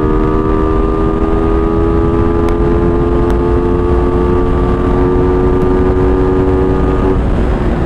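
Suzuki Raider 150's single-cylinder four-stroke engine running at high revs through its stock muffler on a top-speed run, its pitch creeping slightly upward, over heavy wind rush on the helmet-mounted microphone. About seven seconds in the engine note drops away to a lower, weaker tone.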